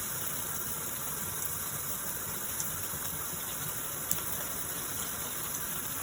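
Luxsego filtered shower head spraying water: a steady, even hiss of running water, with a faint click about four seconds in.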